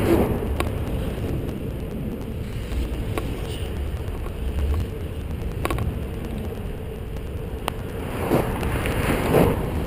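Road and wind noise from a bicycle ridden along a road, a steady low rumble on the action camera's microphone, with a few brief sharp clicks. A motor vehicle passes near the end, rising and falling in loudness.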